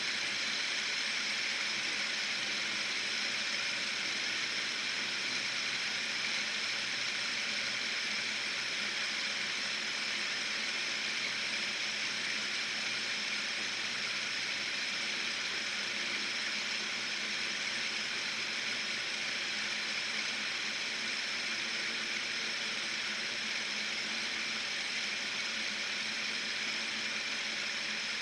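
Fidget spinner spinning on its ball bearing, a steady hissing whir that fades only very slightly.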